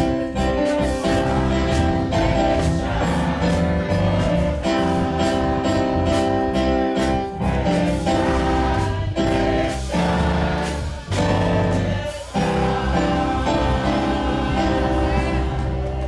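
Gospel choir singing with instrumental backing: sustained voices over a bass line and steady percussion.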